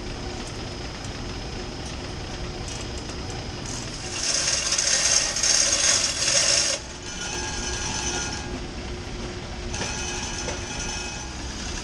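Manual chain block being hauled: the hand chain rattles through the hoist, loudest from about four to seven seconds in and again more faintly twice later, over a steady machinery hum.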